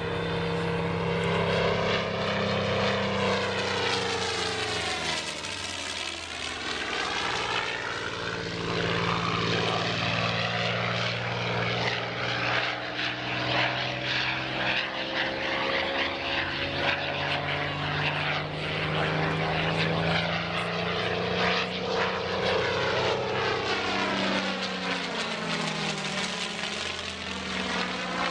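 Propeller-driven piston-engine aircraft running steadily as it flies past at an air display. The sound swells and shifts in pitch as it passes about five seconds in and again near the end.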